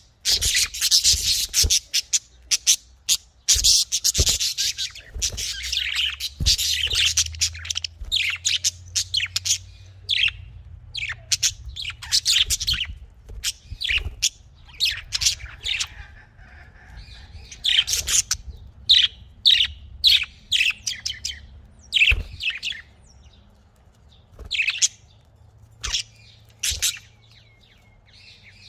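Budgerigars chirping and chattering. A dense warbling fills the first several seconds, then it thins to separate sharp chirps.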